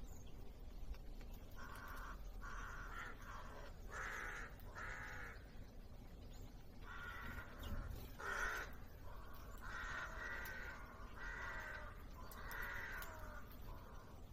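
A bird giving a series of harsh, grating calls, about ten in a row with short gaps between them.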